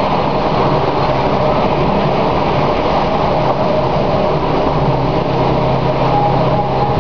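Vale of Rheidol Railway narrow-gauge train on the move, the diesel locomotive No 10 working with a steady engine drone over the running noise of the wheels on the rails.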